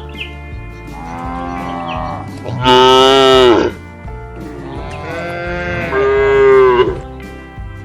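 Cattle mooing: three long, drawn-out moos, the middle one loudest and shortest and the last one longest, over background music with a steady beat.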